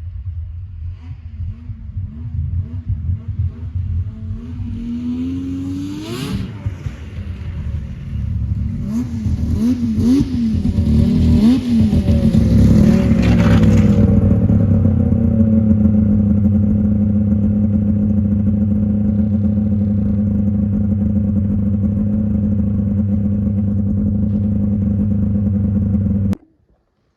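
Yamaha V-Max triple snowmobile's three-cylinder two-stroke engine revving up and down in repeated blips, then running at a steady high pitch before cutting off abruptly near the end.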